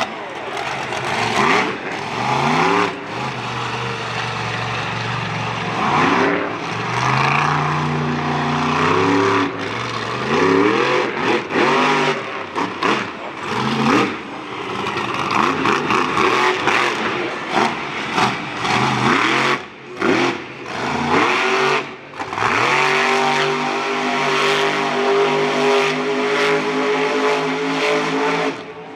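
Monster truck engine revving hard again and again, its pitch climbing and falling with each burst of throttle, then held at high revs for several seconds near the end.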